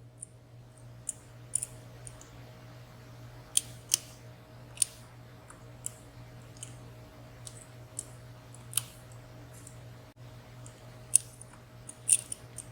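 Small, sharp metallic clicks at irregular intervals, about a dozen, as a lock pick works the sliders of a WSW W10 high-security padlock under tension. A faint steady low hum runs underneath.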